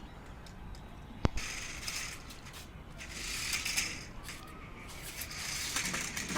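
Toy car being handled: a sharp click about a second in, then uneven scratchy rattling of its plastic parts and wheels.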